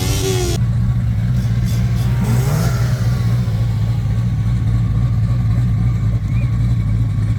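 Vehicle engine running steadily, a loud deep drone that holds one pitch without revving.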